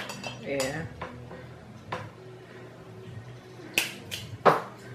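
Eating sounds at a seafood boil: several sharp clicks and cracks of crab shell and mouth, the loudest about four and a half seconds in.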